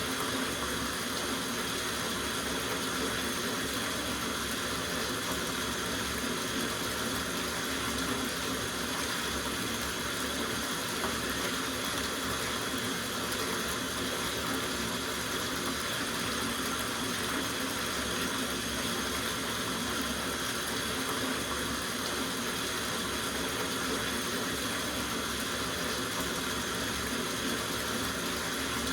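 Water running steadily from a faucet into a filling soaking tub, an even rushing splash that doesn't change.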